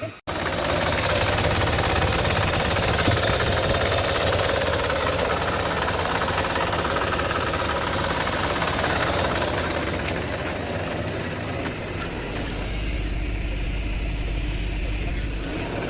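Car engine running steadily, cutting in abruptly at the start, with a fine even pulse to its sound. A deeper low hum joins for a few seconds near the end.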